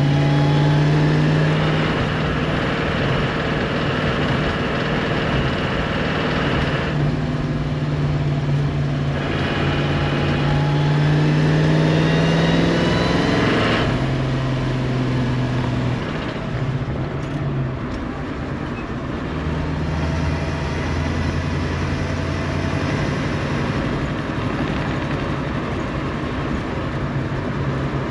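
V8 engine of a 1966 Ford Mustang with a loud exhaust, running while the car drives; its note climbs about halfway through, then drops away and settles into a steady cruise.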